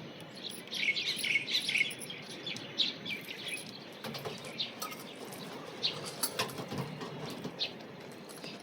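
Small birds chirping: many quick overlapping chirps for the first few seconds, thinning to scattered chirps later.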